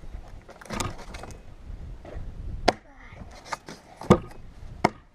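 Chopping firewood: about four sharp blows of an axe into wood, spaced a second or so apart, the loudest about four seconds in.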